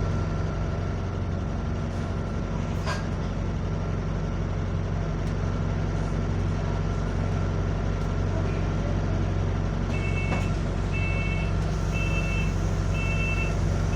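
A single-deck bus's diesel engine running steadily with a low drone. From about ten seconds in, an electronic beeper sounds four times, about once a second.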